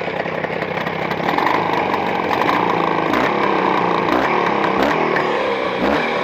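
Motorcycle engine running on freshly fitted Chinese cylinders during break-in, its pitch rising and falling a few times as it is revved.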